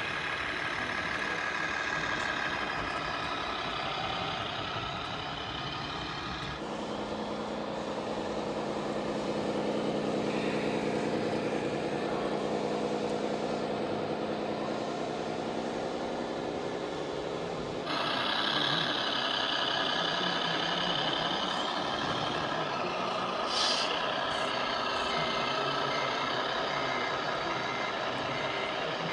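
Scale RC truck and tractor models running, their sound modules playing simulated diesel engine sound through small onboard speakers; the engine sound changes abruptly twice as different models take over. Near the end a reversing beeper sounds in a steady repeating pattern.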